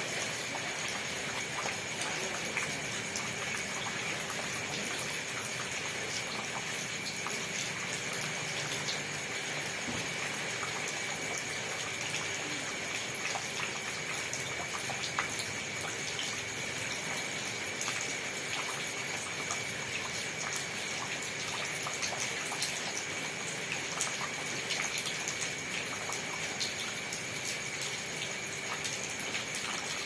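Steady rain with individual drops landing in scattered sharp taps over an even hiss.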